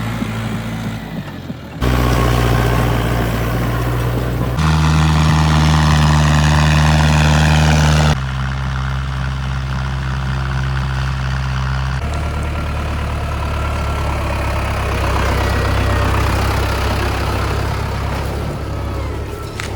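Mahindra Arjun Novo 605 tractor's diesel engine running steadily. The sound jumps abruptly every few seconds, as if short clips were cut together.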